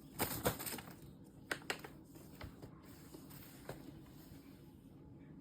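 Scratchy rustling and light clicks and taps, mostly in the first second, with two more sharp clicks about a second and a half in, then a faint continuing rustle.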